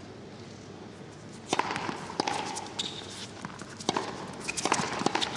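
Tennis rally on a stadium court: a hushed crowd, then from about a second and a half in, a string of sharp racket strikes and ball bounces that grows louder toward the end.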